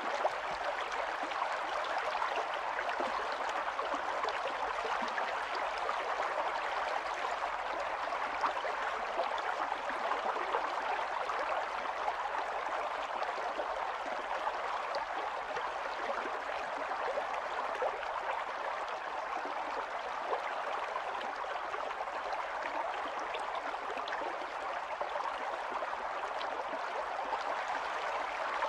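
Small stream running over stones: a steady, even babble and splash of flowing water.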